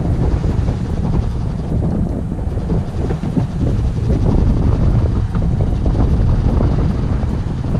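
Wind buffeting the microphone in a loud, steady low rumble aboard a boat under way.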